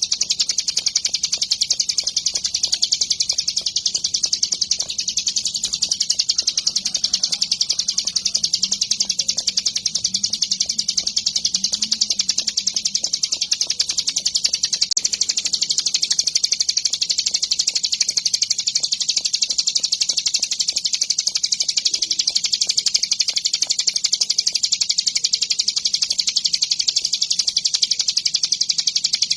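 Hill prinia (ciblek gunung) singing a continuous, very rapid high trill without a break.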